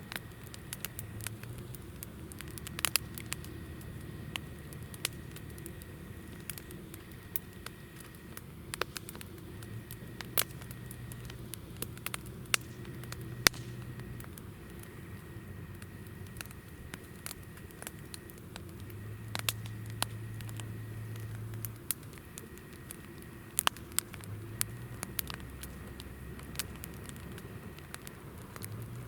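Hinoki (Japanese cypress) firewood burning in a campfire, crackling with frequent sharp pops and snaps over a soft steady hiss.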